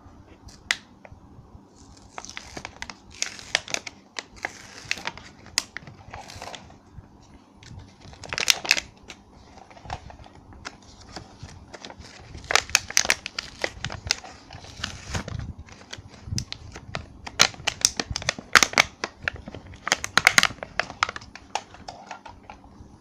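Crinkly packaging being handled, crackling and rustling in irregular bursts with sharp clicks.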